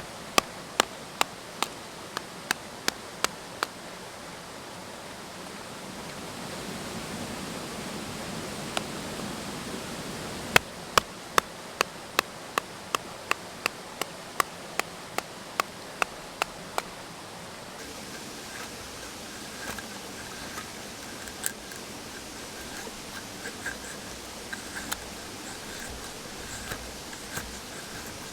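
A mountain stream babbling steadily. Over it come two runs of sharp, evenly spaced knocks at about two to three a second, one at the start and another from about ten seconds in, lasting some six seconds.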